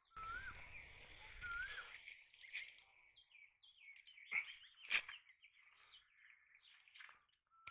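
Birds chirping, with short whistled notes that bend upward, and a low rumble in the first two seconds. A few sharp clicks stand out, the loudest about five seconds in.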